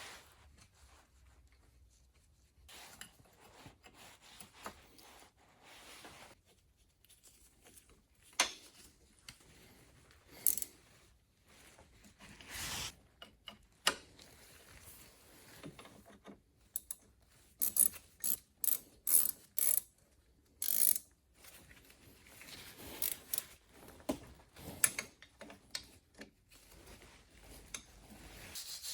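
Hand tools at work on a car's front brake: a socket ratchet clicking in short runs, with scattered metal clicks and scrapes.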